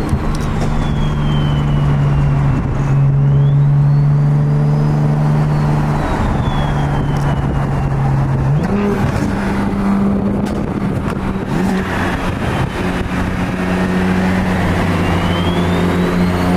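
Turbocharged BMW engine running under way at steady revs, its pitch stepping up and holding about halfway through, with a faint high whine rising and falling over it.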